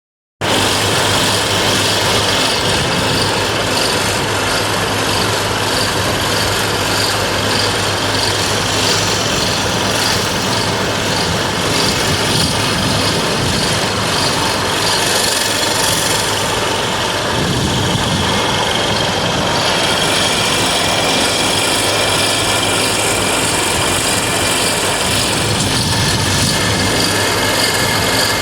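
An excavator and a mobile screening plant running together: a steady low engine hum under an even, continuous noise of material being worked.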